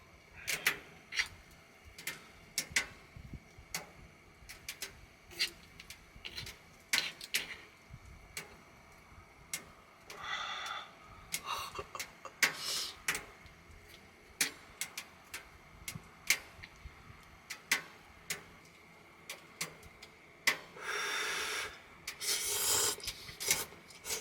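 Irregular sharp clicks and taps, with short scraping noises about ten seconds in, again about twelve seconds in, and a longer stretch a little past twenty seconds in.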